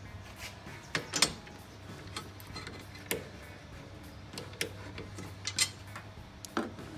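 Scattered sharp metallic clicks and taps of a 13 mm wrench working the bolts of an air-filter box bracket, at irregular intervals over a steady low hum.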